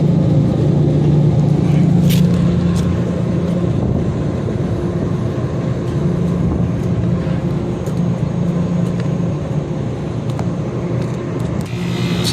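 Steady hum of rooftop HVAC equipment running, with a fixed low drone and a couple of brief clicks about two seconds in.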